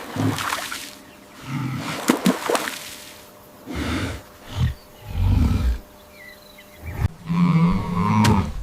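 Large wild animals giving a series of about six low calls, separated by short pauses, with a few sharp knocks among them.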